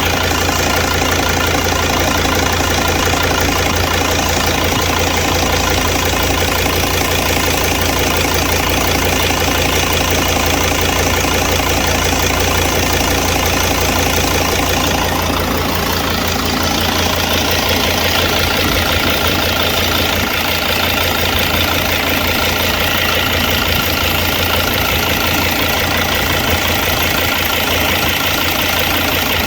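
Mercedes-Benz Sprinter T1N engine idling steadily, its serpentine belt running on a bad tensioner that lets the belt run off-centre, with one rib worn away. About halfway through, the sound takes on more high-pitched noise.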